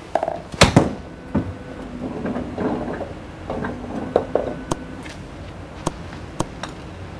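A golf club strikes a ball in one sharp crack about half a second in, followed by a few fainter clicks.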